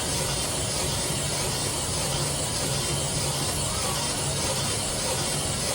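A shop machine running steadily: a constant hiss with a low, even hum underneath.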